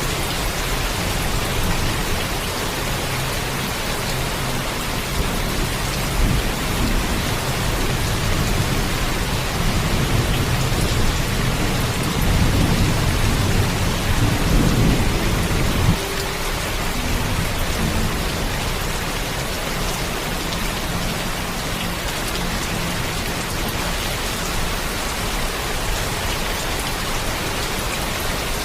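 Steady heavy rainfall with a low thunder rumble that swells from about eight seconds in and cuts off suddenly about halfway through.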